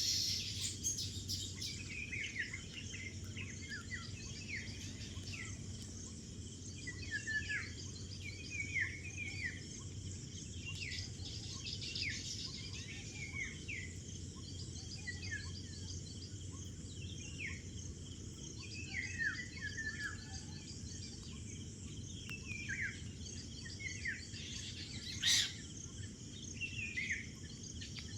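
Small birds calling with repeated short, downward-sliding chirps over a steady, high insect buzz; a single sharp click near the end.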